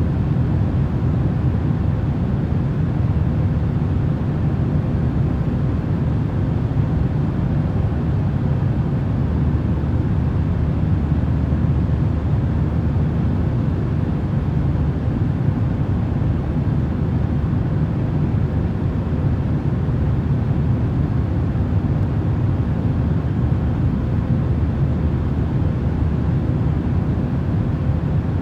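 Airplane cabin white noise: a steady low rumble with a faint steady hum in it, unchanging throughout.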